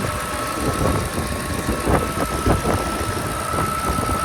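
Supercharged V8 of a 2024 Shelby F-150 idling steadily, with a constant high-pitched whine over the low engine rumble.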